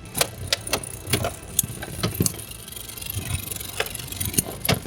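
Beyblade X spinning tops battling in a stadium: a steady whirr broken by many sharp, irregular clacks as the tops collide and bounce off the stadium walls.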